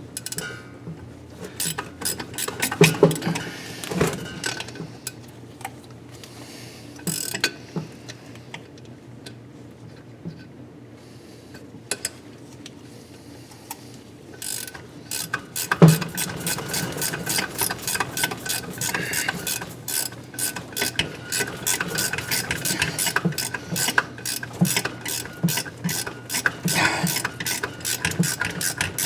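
Hand ratchet clicking as it drives a thread chaser through a damaged exhaust-side bolt hole on a KA24DE engine. A few scattered tool knocks and clicks come first; about halfway through, a steady run of rapid ratchet clicks sets in.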